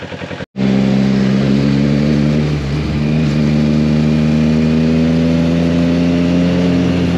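Motorcycle engine running under way, starting about half a second in and holding a steady note whose pitch slowly rises as the bike gently accelerates.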